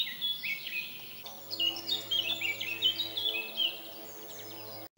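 Small birds chirping in quick, repeated stepped phrases, with a steady low hum coming in about a second in; both cut off suddenly near the end.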